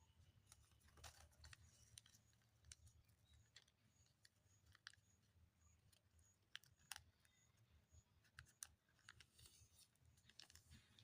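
Near silence with faint scattered clicks and crinkles of paper being handled and folded. In the middle a faint high chirp repeats about twice a second for a few seconds.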